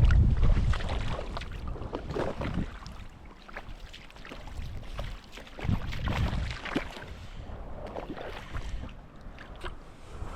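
Irregular splashes and sloshing of water around stand-up paddleboards in very shallow river water, with wind rumbling on the microphone in the first second or so.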